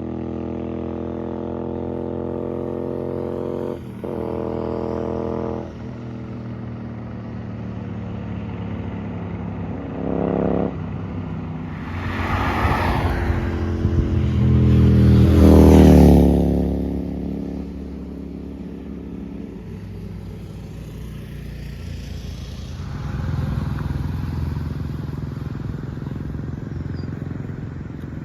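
Royal Enfield Interceptor 650's parallel-twin engine through an aftermarket Gursewak Big Shot exhaust. A steady engine note at first, then the bike riding past: louder from about twelve seconds in, loudest around sixteen seconds as its pitch drops going by, then fading, with a smaller rise again a little later.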